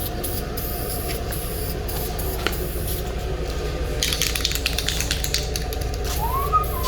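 Aerosol spray-paint can hissing in a run of short bursts about four seconds in, over a steady low rumble.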